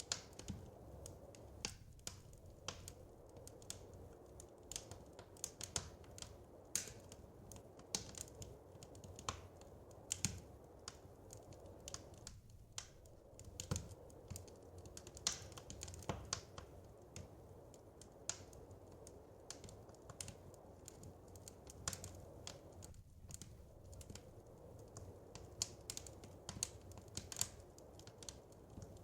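Wood fire crackling in a fireplace: irregular sharp snaps and pops, several a second and some louder than others, over a steady low rush.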